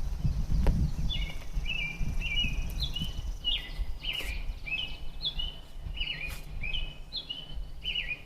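A songbird singing a quick series of short, stepped chirping phrases, about two a second, over a steady low rumble. There is a sharp click near the start.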